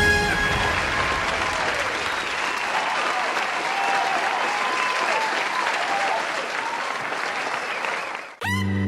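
A crowd applauding and cheering after a song ends, with voices calling out over the clapping. Near the end the applause cuts off and music starts abruptly.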